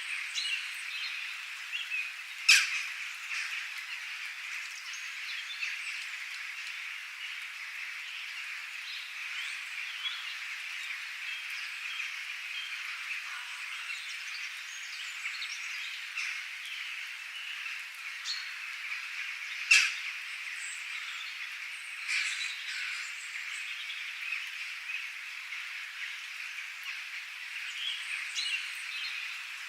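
A dense, steady chorus of frogs and birds calling. A few short, sharp, louder calls stand out from it, the loudest about two and a half seconds in and again about twenty seconds in.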